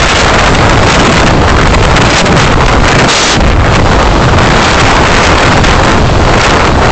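Loud, steady rush of road and wind noise from a moving car, as picked up by its dashcam microphone, with a brief sharper hiss about three seconds in.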